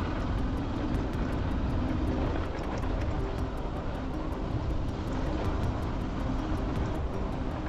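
Steady engine drone and road and wind noise of a moving vehicle, with a low rumble underneath.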